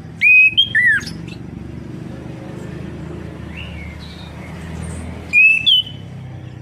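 Chestnut-capped thrush (anis kembang) calling: two short, loud whistled phrases with sliding pitch, about five seconds apart, over a steady low hum.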